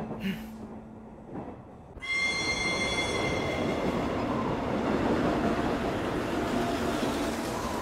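Passenger train running on rails. It starts suddenly about two seconds in with a high squeal that fades over the next couple of seconds, then settles into a steady rumble.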